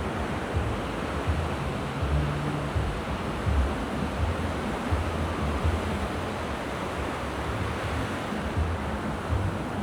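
Mediterranean surf washing steadily on the shore, with low, uneven gusts of wind buffeting the microphone.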